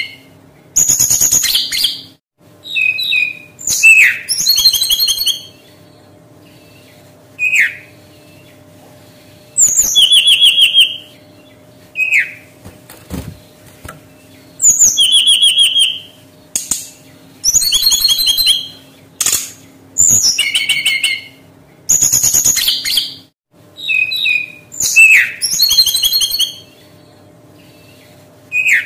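Brown-chested jungle flycatcher singing: short phrases every two to three seconds, each a quick trilled run of high whistled notes, with single falling whistles between them. A faint steady hum underneath.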